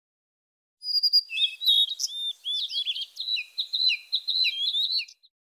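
Small birds chirping and twittering in a quick, busy run of short high chirps and trills. The calls start about a second in and cut off suddenly near the end.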